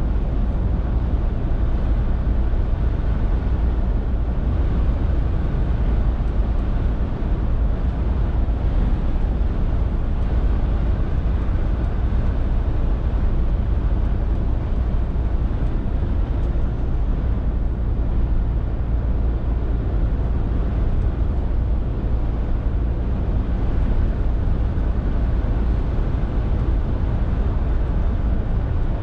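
Scania R450 lorry's 13-litre six-cylinder diesel and road noise while driving: a steady low drone that holds level throughout.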